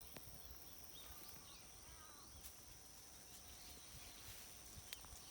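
Faint outdoor ambience with a few soft, short bird chirps about a second in, over two steady high-pitched tones.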